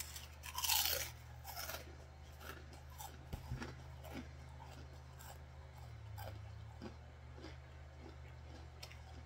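Someone biting into a potato chip with a loud crunch about half a second in, then chewing it with smaller crunches that thin out over the next several seconds.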